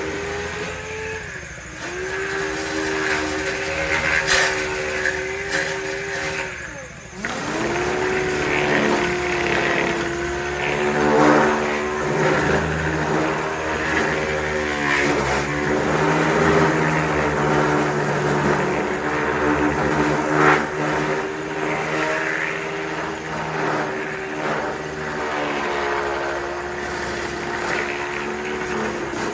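Power sander running against a car fender's body work, a steady whine with a gritty rasp over it. It sags about a second in, drops away near seven seconds and winds back up to speed.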